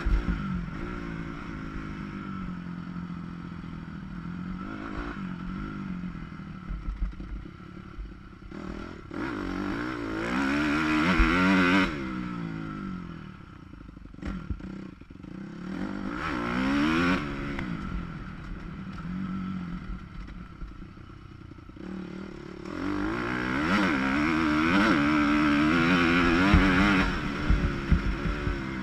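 Motocross dirt bike engine heard from on board the bike through a camera's waterproof housing, revving up and down as the throttle is worked around the track. There are three loud pulls with the pitch climbing, the last and longest near the end, between quieter stretches at lower revs.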